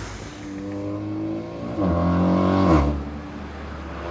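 Tuned Škoda Octavia vRS 245's turbocharged 2.0-litre four-cylinder running under acceleration. Its note grows louder about two seconds in, then drops sharply in pitch near three seconds in.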